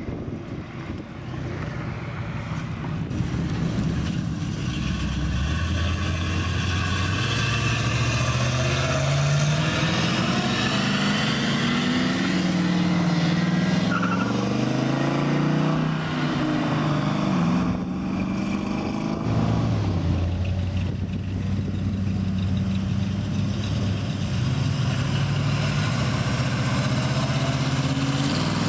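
Classic car engines running as cars drive past one after another, with engine pitch rising as they accelerate, falling away, then holding steady.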